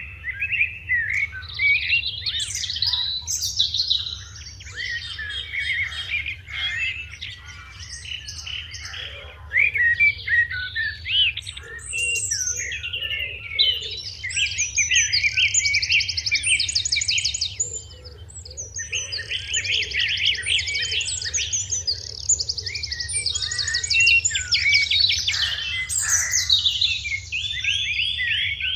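Sparrows chirping in a dense chorus, many quick overlapping chirps and rapid trills that go on throughout.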